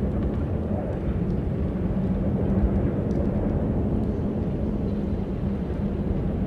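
Wind blowing steadily, a dense low rumble with a faint steady hum beneath it.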